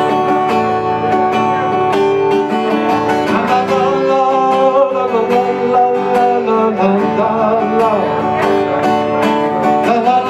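Live music: an instrumental passage of a rock ballad played on guitar, with a steady strummed rhythm and a melodic line weaving over it.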